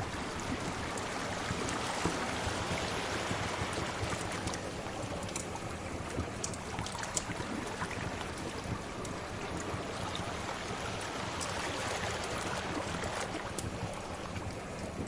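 Sea waves washing in and out: a steady rushing hiss that swells and eases. Small, sharp crackles of a wood fire are scattered over it.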